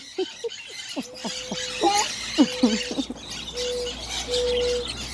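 Parrots in an aviary chattering and calling: a continuous high twittering with a string of short gliding calls, and a couple of held whistled notes in the second half.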